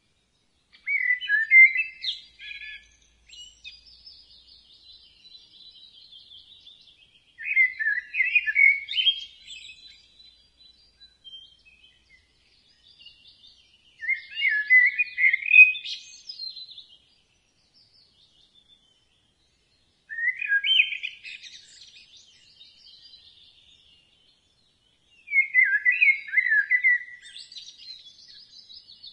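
A common blackbird singing: five phrases about six seconds apart, each a low fluting warble that ends in a thinner, higher twitter. Faint high chirps run between the phrases.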